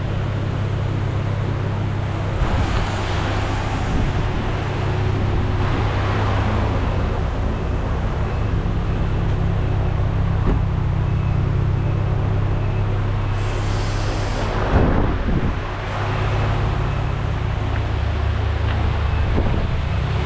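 The Mustang's 2.3L four-cylinder engine running at a steady idle. A few brief swells of hiss come over it.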